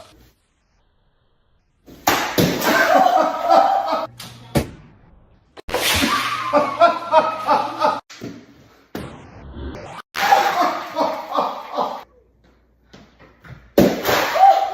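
People laughing in several bursts of a couple of seconds each, with pauses between them, and a sharp knock or two in the pauses.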